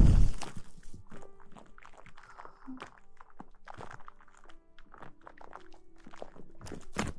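Close-miked ASMR rustling and crackling: a loud rustle at the start, then soft scattered clicks and crackles, over faint steady background music.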